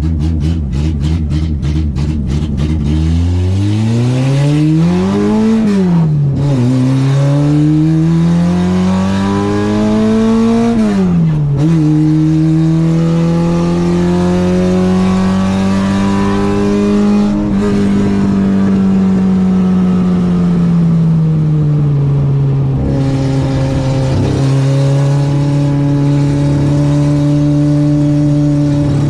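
Citroen AX 8-valve engine on twin Weber 40 carburettors, pulsing at low revs at first, then climbing through the revs twice with a sharp drop at each gear change, about six and eleven seconds in, before holding steadier revs with another drop near the end. Part of its exhaust has fallen off on the track, so it is running without the tail end of the exhaust.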